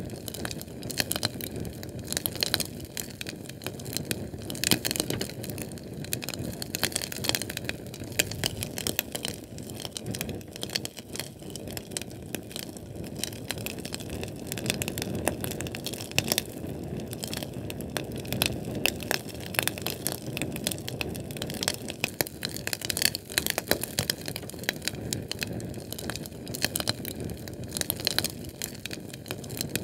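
Sterno canned-fuel flame crackling steadily, with dense irregular pops and ticks over a low rushing burn.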